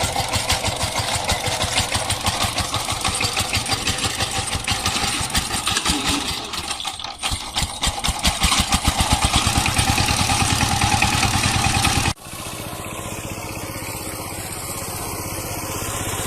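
Small tractor's engine running with a rapid, even chugging while hauling a full load. It dips briefly about six to seven seconds in and then runs louder. About twelve seconds in it cuts off abruptly to a quieter, steadier engine sound.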